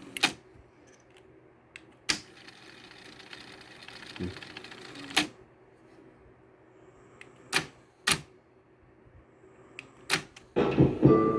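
Pioneer CT-F900 cassette deck's transport being switched between modes: six sharp mechanical clicks spaced a second or two apart, with the tape mechanism running faintly between them. Music from the playing tape starts near the end.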